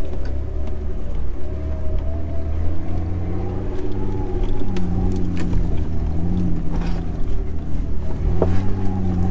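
Jeep TJ's engine running, its pitch wavering slowly up and down, with a few short knocks.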